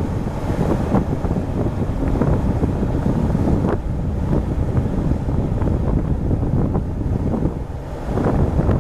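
Wind buffeting the microphone at sea: a steady, loud low rumbling rush with a few brief crackles, over the wash of the sea.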